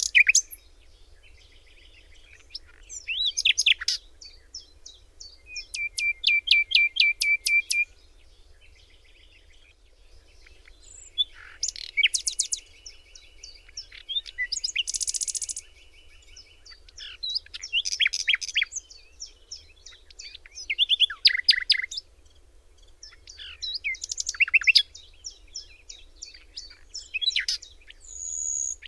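Songbird singing: a series of varied high-pitched phrases of chirps, quick sweeping notes and fast trills of repeated notes, each phrase a second or two long with short pauses between them.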